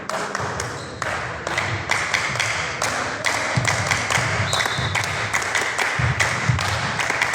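A run of taps and thuds echoing in a sports hall: volleyball play, with the ball being struck and players moving on the court floor.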